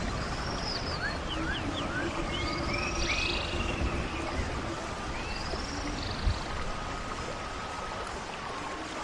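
Steady rush of running stream water with birds singing over it: several short sweeping chirps and calls, most of them in the first two-thirds.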